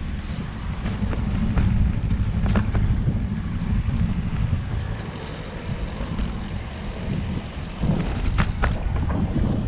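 Wind rumbling on the microphone while riding a road bike, mixed with road noise from the bike. A few sharp clicks come through it, two close together near the end.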